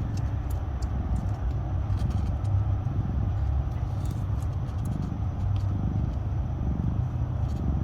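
Mother cat purring steadily, a deep rumble that swells and eases in slow pulses, with faint wet clicks from her newborn kitten suckling at the teat.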